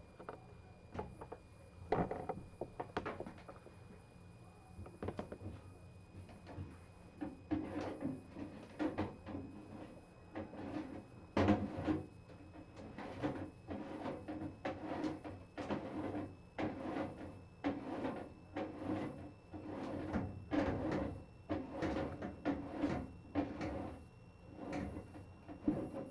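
Knocking and clattering: irregular knocks at first, then a fairly regular run of knocks at about two a second from about eight seconds in.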